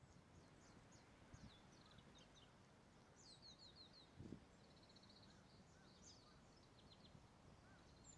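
Faint birdsong over a low background hush: small birds give repeated short, high chirps, with a quick rapid trill about four seconds in. A soft low bump sounds around the same point.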